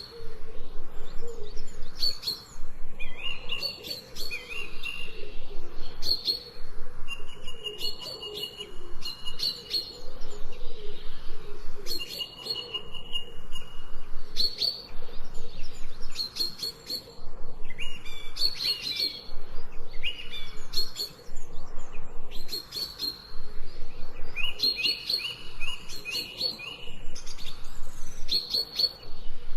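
Several songbirds chirping and trilling in overlapping short phrases, with brief rapid trills and high chirps repeating every second or two.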